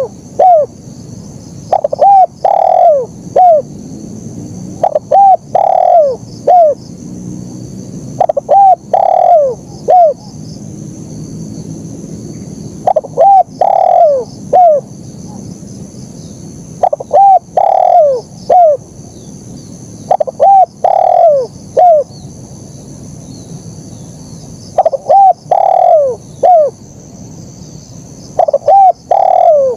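Spotted dove (terkukur) cooing its 'kuk 1' song: a short phrase of a few falling coos, repeated about every three to four seconds. A steady high-pitched insect-like drone runs beneath.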